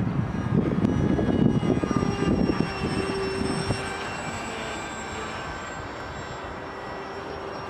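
Model seaplane's motor running steadily in flight, a thin, even whine, with strong wind gusting on the microphone over the first few seconds before it eases.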